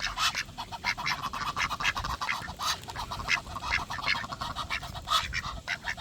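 A flock of ducks quacking, many short calls overlapping in quick succession.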